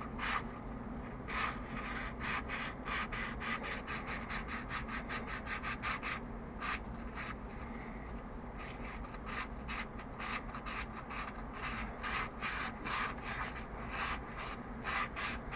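Rapid repeated rubbing or scraping strokes, about three to four a second, with short pauses around six and eight seconds in, over a faint low hum.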